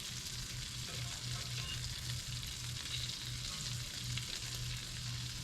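Panfish fillets frying in hot oil: a steady, even sizzle.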